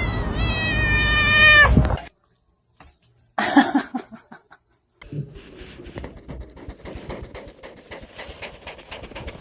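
A cat yowling and meowing in a drawn-out, pitched call that drops at its end. After a short silence comes a brief meow, then a run of rapid scratchy clicks.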